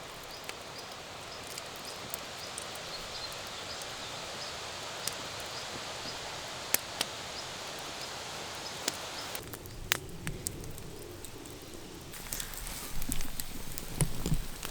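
Campfire burning, with scattered sharp crackling pops over a steady hiss. The hiss drops out about two-thirds of the way through, and louder rustling and knocks follow near the end.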